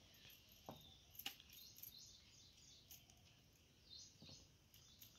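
Near silence, with faint high bird chirps now and then and a few soft taps.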